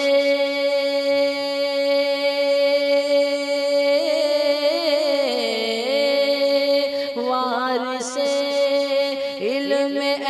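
A man singing an Urdu naat, holding one long steady note and then ornamenting it with wavering turns about four seconds in, dipping lower, and again after about seven seconds. Only the one voice is heard.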